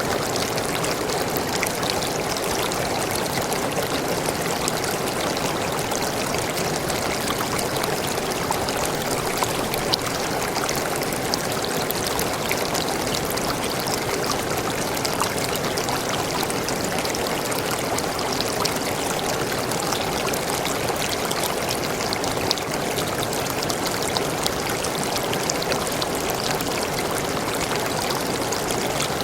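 Waterfall in a tropical forest, water pouring and splashing in a steady, unbroken rush.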